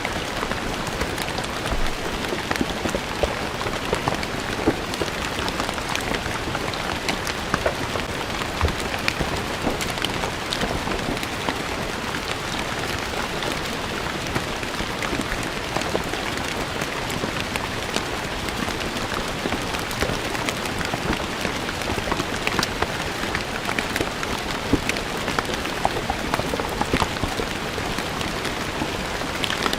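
Steady rain falling on stone paving, a continuous hiss with many individual drops pattering on the hard surface.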